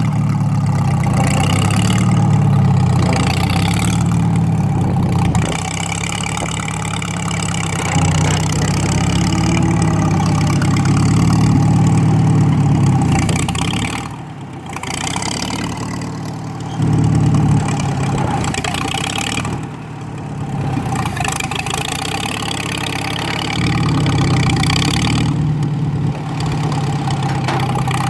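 An engine running steadily at idle, its level dipping briefly a few times, most deeply about halfway through.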